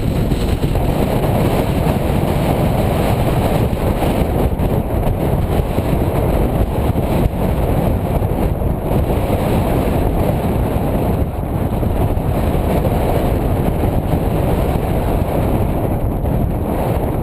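Strong wind rushing over the microphone, a steady loud rumble with no let-up.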